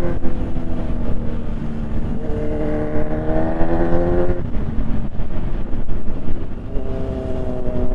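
Motorcycle engine pulling under throttle, rising in pitch for about two seconds before the throttle comes off, then picking up again near the end. Steady wind rumble on the microphone throughout.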